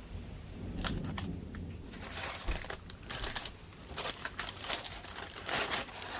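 Crinkling and rustling handling sounds with scattered light clicks, coming in irregular bursts.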